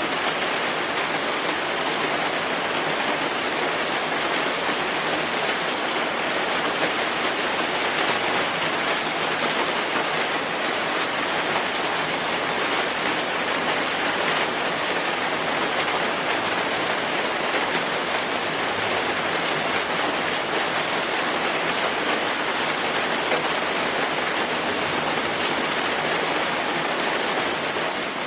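Steady rainfall: an even hiss of rain with fine drop patter, holding a constant level throughout.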